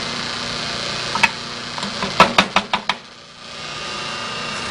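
Bench grinder/buffer motor running steadily with the wheels spinning. There is a single sharp tap about a second in, then a quick run of five or six sharp knocks. The motor hum dips briefly after the knocks and then returns.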